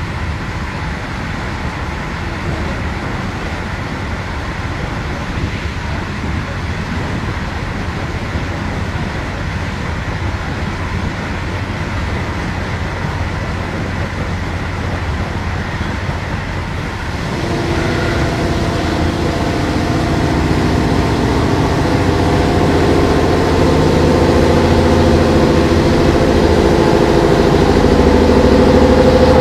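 Interior running noise of an InterCity passenger train at speed: a steady rumble of wheels on rail. About halfway through, a humming drone of several tones comes in and keeps getting louder.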